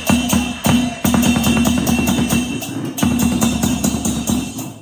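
Lion dance drum and hand cymbals played together in a fast, steady beat, the cymbals crashing and ringing on the strikes.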